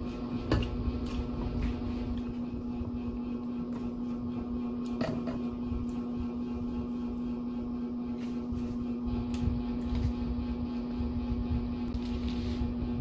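Chewing and eating sounds with scattered soft clicks, over a steady low mechanical hum in the room.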